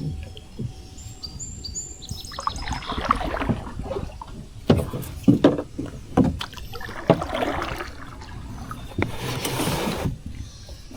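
Canoe on the water: water sloshing against the hull with scattered knocks on the boat, and a short rush of noise about nine seconds in.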